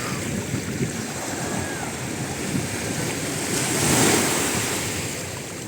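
Waves washing in at the beach, with wind buffeting the microphone; the surf swells up about four seconds in.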